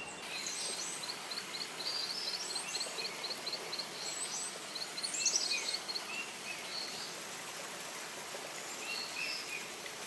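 Forest birds calling: a quick series of high chirps, about four a second, for the first three seconds, then a short run of falling high notes about five seconds in, over a steady background hiss.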